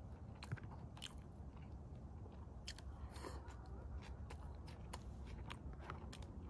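Close-miked chewing and biting of rotisserie chicken, with many short wet clicks and smacks scattered through it over a steady low rumble.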